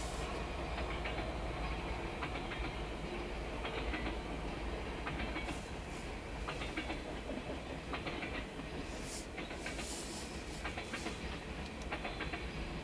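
Freight train rolling past: a diesel locomotive and then a string of tank cars. A steady low rumble with wheels clicking and clacking over rail joints in irregular clusters.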